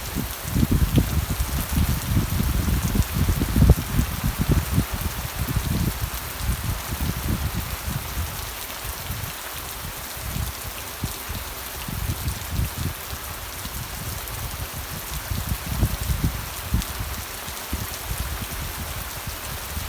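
Steady rain falling, an even hiss, with an uneven low rumble under it that is heavier in the first half and swells again near the end.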